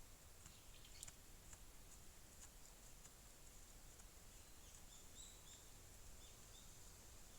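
Near silence: a few faint, sharp clicks in the first couple of seconds, then a quick run of faint, short high chirps about five seconds in, like a small bird calling.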